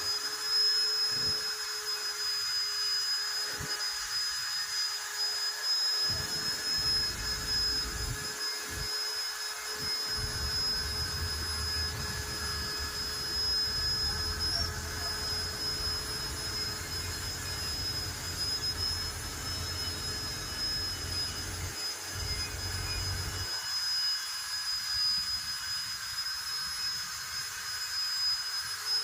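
Steady mechanical whine with an even hiss, holding a constant high tone. A low rumble comes in about six seconds in and drops out a few seconds before the end.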